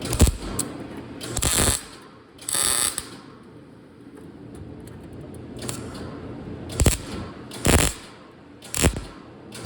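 Hand-tool work on car body sheet metal: two short rasping bursts, then three sharp metal knocks a second or so apart.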